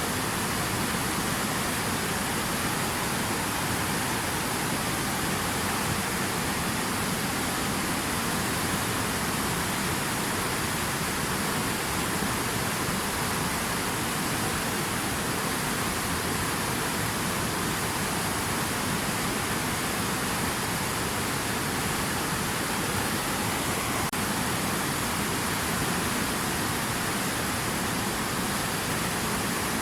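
Steady, unbroken rush of water, even in level throughout.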